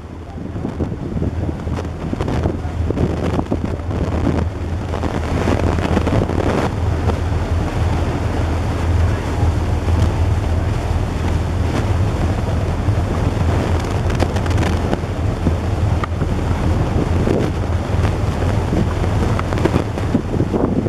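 Boat engine running with a steady low drone, under the rush of water and wind buffeting the microphone.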